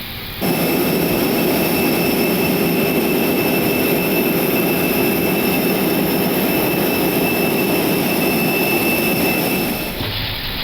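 Airbus A320neo turbofan engines heard from the cockpit at high thrust during the takeoff roll: a loud, steady rush with several high-pitched whines, cutting in abruptly about half a second in and easing off shortly before the end.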